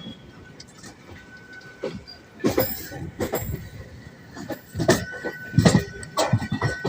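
Moving passenger train heard from aboard: its wheels clatter and knock irregularly over the track, with the loudest clanks about halfway and near the end. A thin steady high tone joins in the second half.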